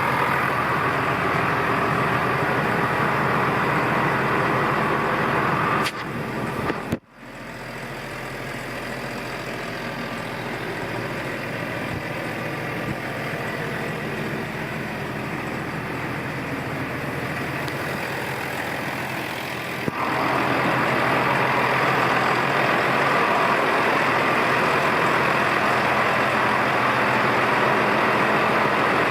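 Massey Ferguson 6455 Dyna-6 tractor's diesel engine idling steadily. About six seconds in the sound cuts out for a moment, comes back quieter and slowly builds, and returns to full level about twenty seconds in.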